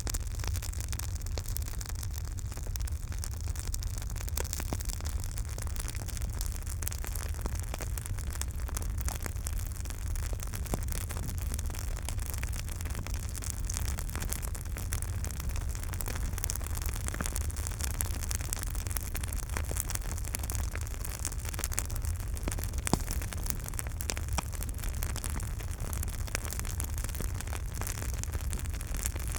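Campfire burning, with frequent small crackles and pops of the wood over a steady low rumble.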